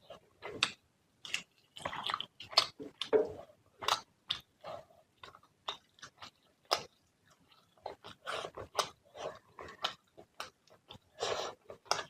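Close-miked chewing with wet mouth smacks and clicks, eating fish curry with rice, in an irregular run of short bites and smacks.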